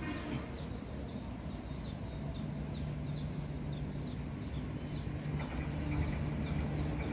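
Steady low hum of a diesel locomotive engine with a bird chirping repeatedly over it, short falling chirps about two or three a second. The engine grows slightly louder and fuller about five seconds in.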